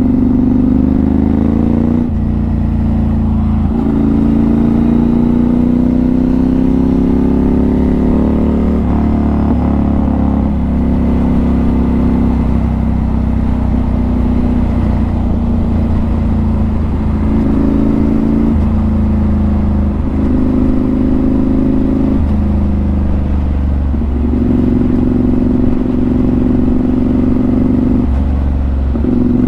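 Motorcycle engine pulling through the gears. The pitch rises over a few seconds and drops at each shift, several times in the first ten seconds. After that it runs at a steadier speed, with a few changes of throttle.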